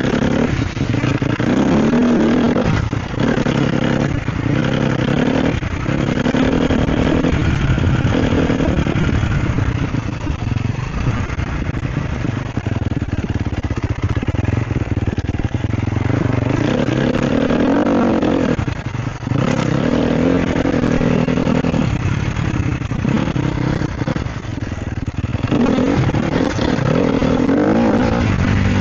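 Sherco SEF 250 four-stroke single-cylinder enduro engine under way off-road. The throttle opens and closes again and again, so the engine note rises and falls, with several brief drops as the throttle is shut.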